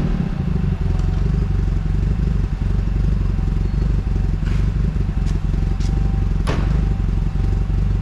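Turbocharged Maruti Zen's engine idling steadily just after a blip of the throttle, its exhaust note even and not loud. A few sharp clicks sound about halfway through.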